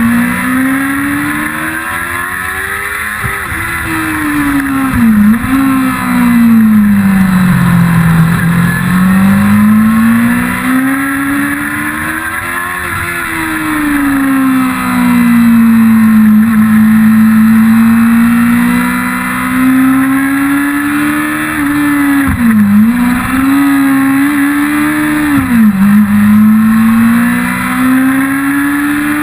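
1999 Yamaha YZF-R6's 600 cc inline-four engine at racing speed: it winds up and drops away in long sweeps as the bike accelerates and slows, with quick sharp dips in pitch at gear changes, about five seconds in and twice near the end.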